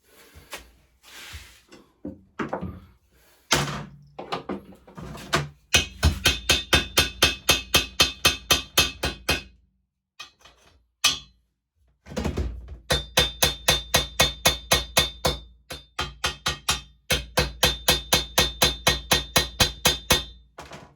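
Rapid hammer strikes on the steel frame, about four a second, in three runs with short pauses between, the metal ringing with each blow: slag being knocked off freshly welded patches before grinding.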